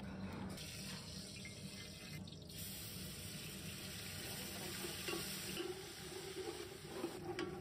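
Ginger garlic paste frying in hot oil in a large aluminium pot: a steady sizzling hiss that builds to its loudest in the middle and then eases, as it is stirred.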